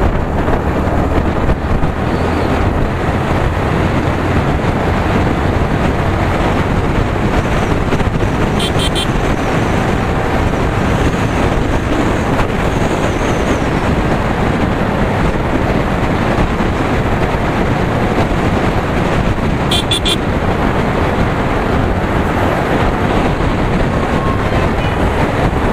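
Yamaha R15 V3 motorcycle on the move: steady, loud rush of engine, road and wind noise. Two short horn beeps sound, about a third of the way in and again about three quarters through.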